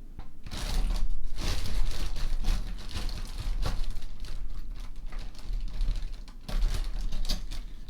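Costume jewelry brooches and pins clicking and clattering as they are rummaged through and handled, with rustling and low bumps from the handling.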